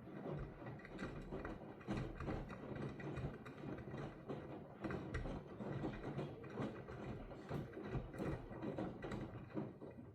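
V-Zug Adora washing machine running, with a dense, irregular mechanical clicking and rattling over a low rumble that dies away at the end.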